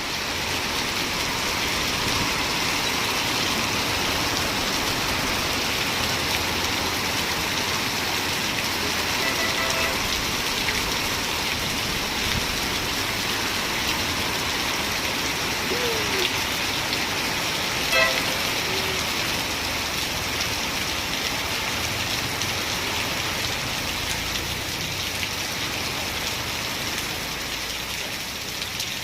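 Steady rain falling, an even hiss that holds at one level throughout, with a brief sharp sound about eighteen seconds in.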